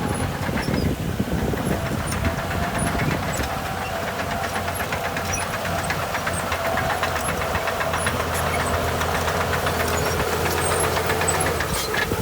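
Diesel engine of heavy earthmoving equipment running steadily under light load, with a constant low hum and scattered light clicks.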